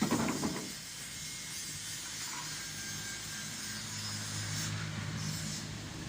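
Truck engine running with a steady low hum over road and wind hiss; the engine hum grows louder from about four seconds in.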